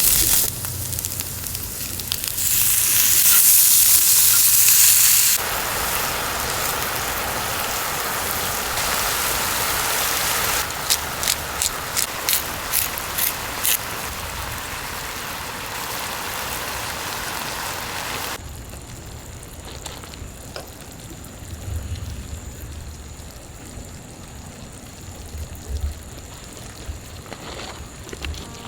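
Food sizzling as it fries in a pan, with a run of sharp clicks near the middle. For the last ten seconds the sizzle drops away, leaving a quieter background with a faint steady high tone.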